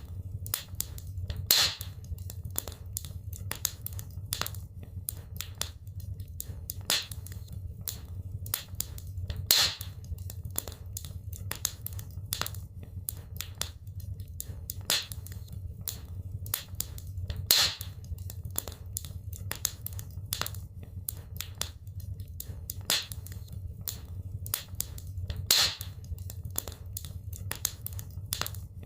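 Wood fire crackling in a fireplace: a dense run of small sharp crackles, with a louder pop about every eight seconds, over a low steady rumble.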